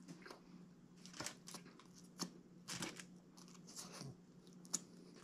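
A man chewing a mouthful of Subway sub sandwich: scattered soft clicks and crackles of chewing, over a faint steady low hum.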